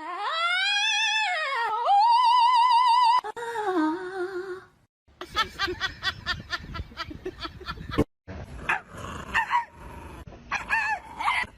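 A dog howling: a long call rising and falling in pitch, then a wavering held note. After it come a run of quick clicks and short yelps.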